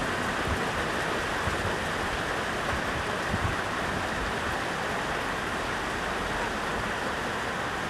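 Steady rush of flowing water from a creek or waterfall, an even, unbroken wash of sound.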